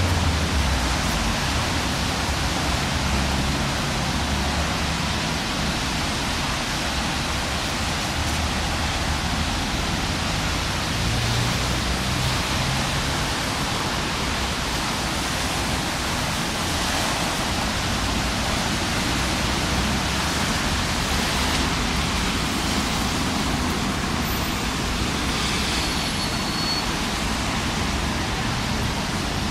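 Steady hiss of light drizzling rain, with a low rumble underneath.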